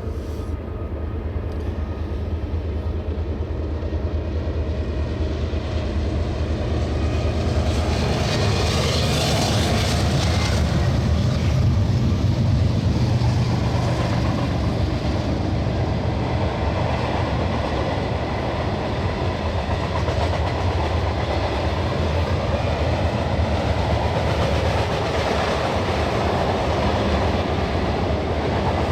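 Manifest freight train rolling past, its steel wheels clacking over the rail joints in a steady roar that swells for a few seconds near the middle.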